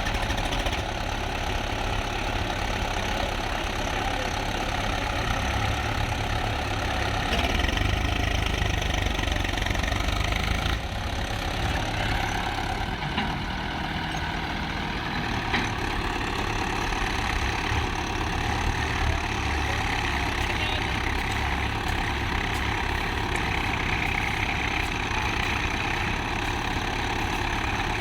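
Tractor's diesel engine running steadily, a little louder for a few seconds about a quarter of the way in.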